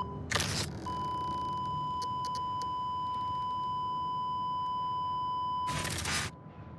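Electronic monitor tone in the style of a hospital heart monitor: a short beep, then one long, steady flatline tone lasting about five seconds. Loud rushing bursts of noise come just before the long tone starts and again as it cuts off.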